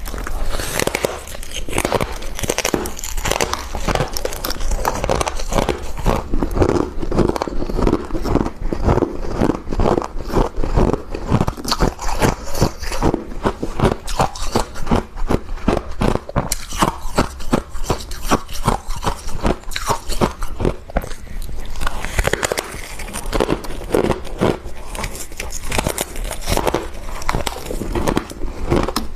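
Close-up crunching and chewing of mouthfuls of freezer frost, a rapid run of crisp icy crunches.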